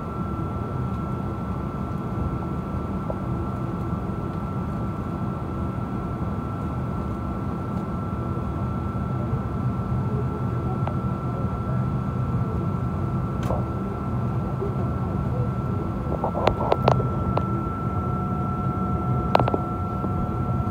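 Steady low drone of a Boeing 777 cabin, with a thin constant high whine over it. A few sharp clicks and knocks come in the second half, and a second steady tone joins near the end.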